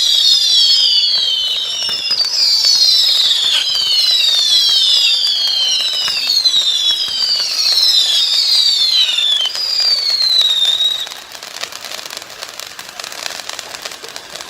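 Whistling fireworks: a string of loud, overlapping shrill whistles, each falling in pitch over about a second, that stops abruptly about eleven seconds in, leaving fainter crackling.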